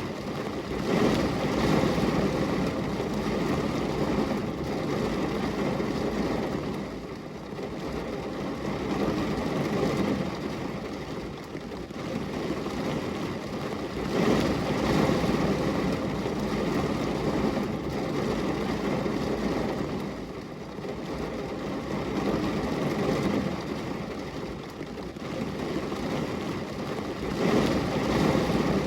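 Steady rain on a glass window: an even, dense hiss with most of its weight low in pitch, swelling and easing in slow waves about every thirteen seconds.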